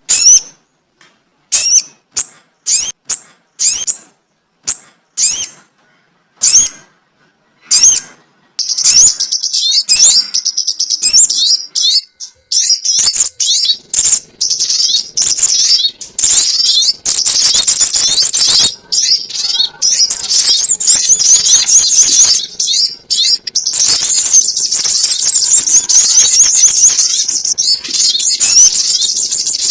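High, sharp bird chirps from a bird-trapping lure call recording of the sogon ontong bird. Single chirps come about once or twice a second, and from about eight seconds in they thicken into a dense, unbroken chatter of overlapping calls.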